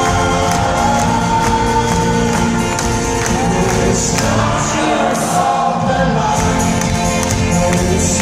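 Live folk-rock band playing loudly, with strummed instruments on a driving beat and voices singing, heard from the audience with crowd noise mixed in.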